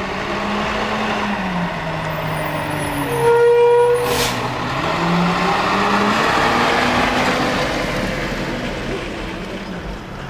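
Garbage truck's diesel engine running, its pitch dropping and then climbing again as it revs. About three seconds in comes a short, steady high tone, followed by a brief sharp hiss.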